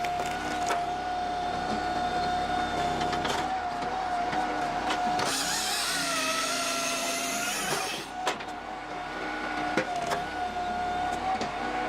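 Engine-driven firewood-processing machine running with a steady whine; for a few seconds in the middle it turns harsher and hissier and the whine dips in pitch as the machine takes a load working through a log.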